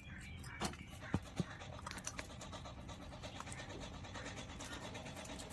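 Parrots at their food: a few sharp clicks and taps, about four within the first two seconds, over low steady background noise.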